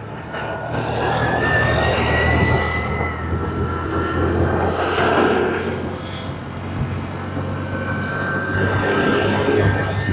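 Vehicle running along a road, heard from on board: a steady low drone, with a thin higher whine that rises in pitch over the first few seconds and comes back near the end.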